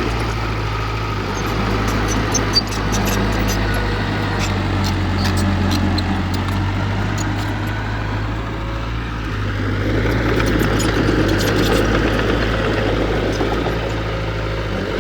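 Heavy earthmoving machinery's diesel engine running steadily under load. It eases off just before 9 s and builds again after 10 s, with a single short knock about two and a half seconds in.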